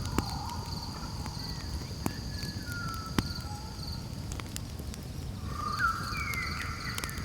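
Campfire crackling with scattered sharp pops over a low steady rumble, while crickets or other insects trill steadily and high. Thin whistled animal calls sound in the background, growing louder after about five and a half seconds.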